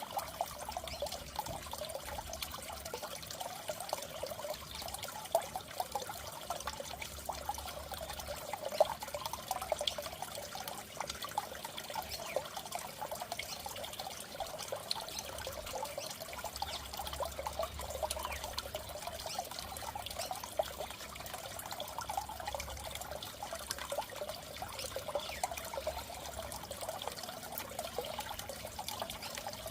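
Fish-tank water trickling and bubbling steadily, a continuous patter of small splashes and gurgles.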